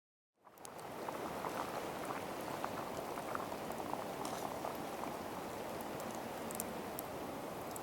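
Liquid bubbling at a boil in a cooking pot, a steady seethe with many small pops, fading in about half a second in.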